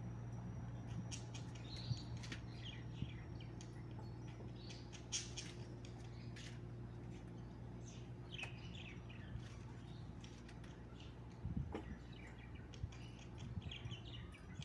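Small songbirds chirping and twittering on and off, with short high calls scattered throughout. A steady low hum runs underneath and stops shortly before the end.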